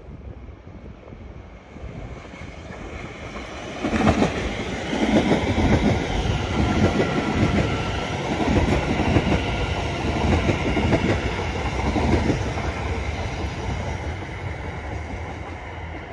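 A Greater Anglia electric multiple unit passes on the main line. The rumble builds sharply about four seconds in, the wheels clatter steadily over the rail joints as the coaches go by, and the sound fades away near the end.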